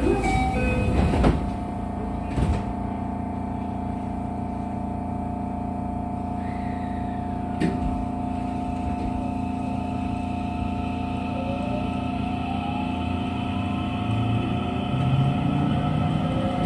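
Interior of a JR West 207 series commuter train standing at a station, with the steady hum of onboard equipment and a few knocks in the first few seconds, typical of the sliding doors closing. From about eleven seconds in, the traction motors and their inverter start a rising whine as the train pulls away; these are the set's original, unchanged motors.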